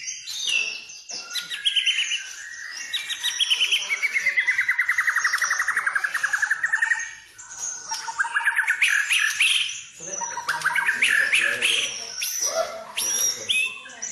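White-rumped shama (murai batu) singing a varied song of whistled phrases and fast trills, with one long rapid trill that falls and then rises in pitch a few seconds in.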